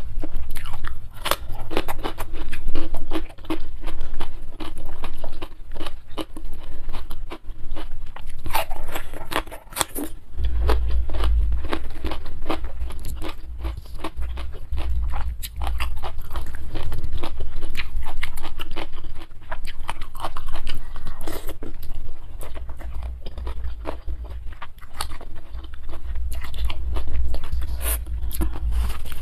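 Close-miked mouth sounds of eating fried instant noodles with sardines and cucumber: wet chewing, biting and crunching, in dense crackly clicks. A low rumble runs under it from about a third of the way in.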